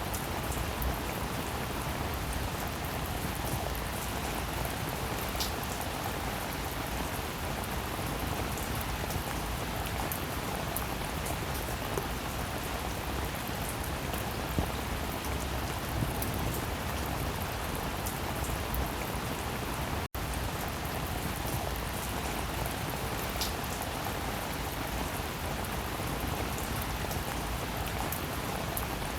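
Steady rain falling on a metal roof: an even hiss of rain with scattered sharp drop ticks. It cuts out for a split second about twenty seconds in.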